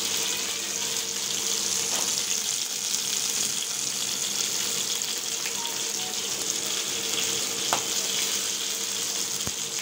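Chicken pieces frying in shallow oil in a nonstick frying pan: a steady, even sizzle with a few faint pops.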